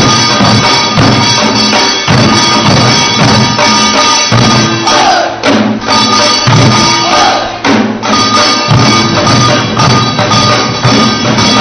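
Korean pungmul percussion: buk barrel drums beaten together in a loud, dense, driving rhythm.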